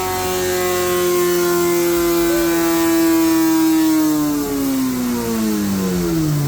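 2016 BMW S1000XR inline-four engine, running catless through a full Akrapovic straight-pipe exhaust, held at high revs on a dyno; over the last two seconds the throttle comes off and the revs fall away steadily, levelling off lower at the end of the run.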